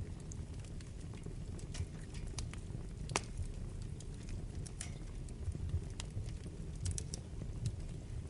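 Wood fire burning in a fireplace, with a low steady rumble and irregular sharp crackles and pops, the loudest about three seconds in.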